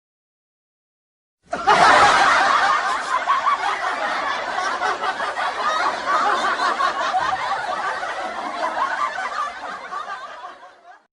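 Laugh-track sound effect: a crowd laughing together, starting about a second and a half in and fading away near the end.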